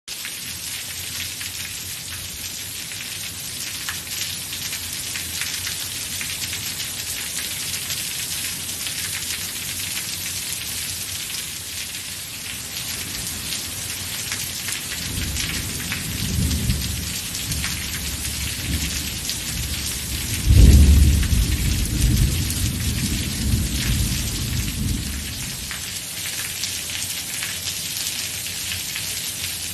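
Steady rain falling, with thunder rumbling from about halfway through. The loudest clap comes about two-thirds in, and the rumble dies away a few seconds later.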